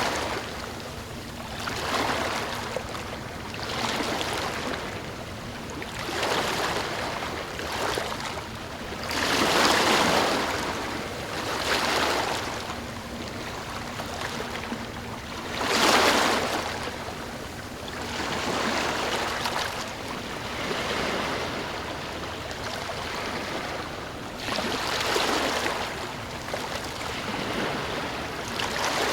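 Small ocean waves lapping and washing in, each swell of hiss rising and falling about every two seconds, with bigger waves about ten and sixteen seconds in.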